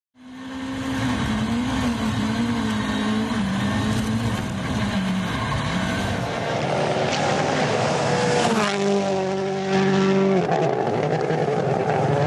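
Rally car engine running hard, fading in at the start, its note wavering and shifting with throttle and gear changes, with a sharp change in pitch near the end.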